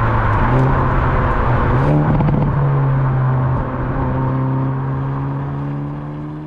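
Hyundai i30 Sedan N's 2.0-litre turbocharged four-cylinder engine running under load, its note holding steady and then climbing slowly as the car gathers speed in gear. The sound fades away over the last couple of seconds.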